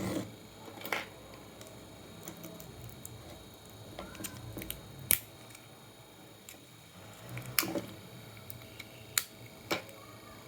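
Scattered sharp clicks and light knocks of tools and parts being handled while a computer power supply is taken apart, about half a dozen over ten seconds.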